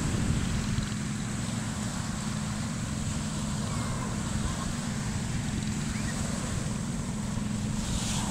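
Ocean surf washing steadily, with wind buffeting the microphone as a constant low rumble.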